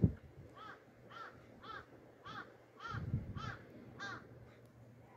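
A bird calling about seven times in a steady series of short calls, roughly two a second, each rising then falling in pitch. There is a low thump at the very start.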